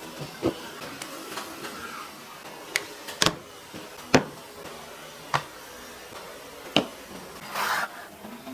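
A handful of sharp, irregular clicks and knocks from hard pieces being handled and set down, with a brief scraping rush near the end.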